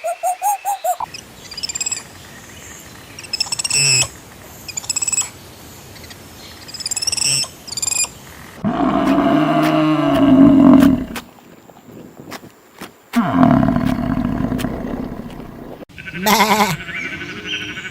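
A run of different animal calls. Short bird chirps come first, then two long, low, roar-like calls, and near the end a bleating call.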